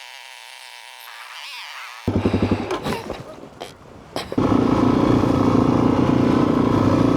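Dirt bike engine, faint for the first two seconds, then running unevenly, and from about four seconds in running loud and steady at a constant pitch.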